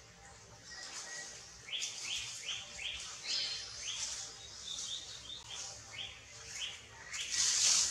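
A wild bird calling in quick series of short falling chirps, about four a second. Near the end, a louder burst of high hissing noise.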